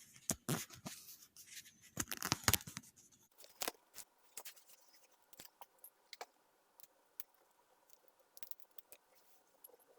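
Clicks, snips and scrapes of hands and tools working on an electric bike's wiring. There is a quick run of them in the first three seconds, then scattered single clicks.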